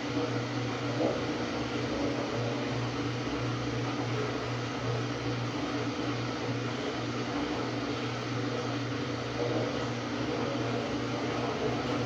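Samsung WA45T3200AW top-load impeller washer running mid-cycle: a steady low hum under an even rush of noise, which drops away suddenly at the very end.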